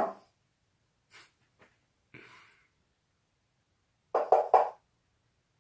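A sound effect played for a dog: three quick, sharp strokes, repeated about four seconds later, with faint small noises between.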